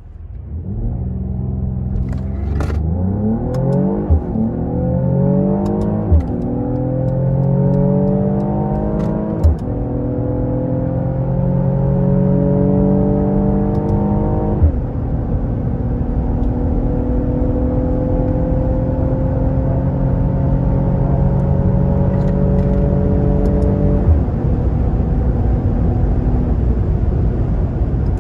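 Mercedes-AMG GLE 53's 3.0-litre inline-six under hard acceleration, the engine note climbing in each gear. Five upshifts of the 9-speed automatic break the climb, each a sudden drop in pitch with a short click, and the rise grows slower in the higher gears.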